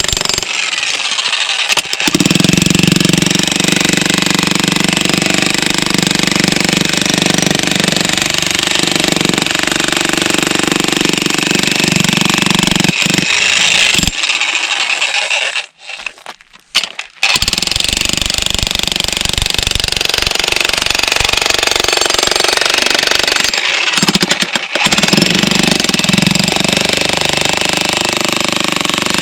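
Jackhammer hammering at stone, running steadily; it stops for a second or two about halfway through, then starts again, with another short break a little later.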